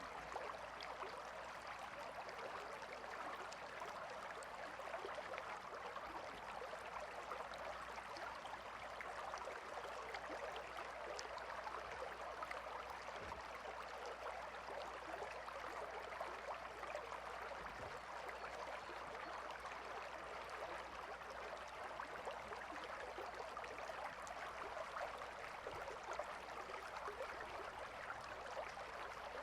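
River water flowing steadily, an even, unbroken rush with a fine bubbling flicker.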